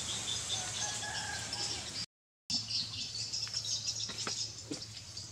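Outdoor ambience: a steady high background hiss with faint bird chirping and a soft call about a second in, then a few light clicks late on. The sound cuts out completely for about half a second just after two seconds in.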